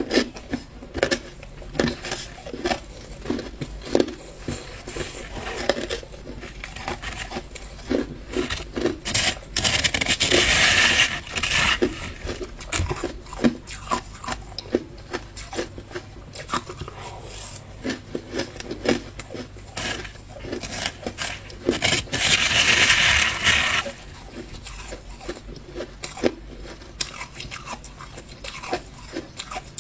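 Ice being bitten and chewed close to the microphone: a run of sharp crunches and cracks, with two longer grinding crunches, one about ten seconds in and one about twenty-two seconds in.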